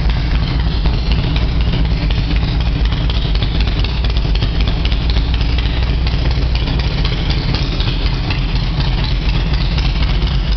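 2011 Harley-Davidson Road King Classic's air-cooled V-twin idling steadily.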